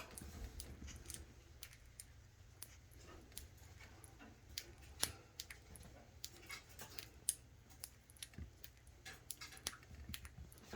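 A pet bird's beak nibbling and snipping at spaghetti: quiet, irregular sharp clicks, with two louder snaps about five and seven seconds in.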